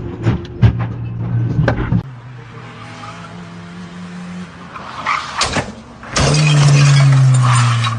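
Road traffic heard from inside a car: an engine running with a few sharp knocks, then a couple of bangs about five seconds in. A long, loud, steady car-horn blast follows, sagging slightly in pitch before it stops.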